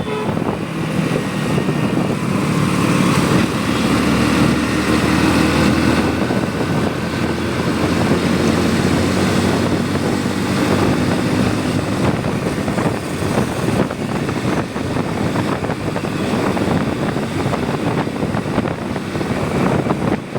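Motorcycle riding along a road, its engine running steadily under a broad, continuous rush of road and wind noise.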